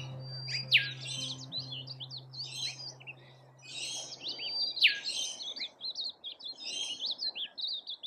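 Birds calling in a busy overlapping chorus of sharp chirps and quick, high whistles that sweep steeply downward, with a low steady drone underneath that fades out about six seconds in.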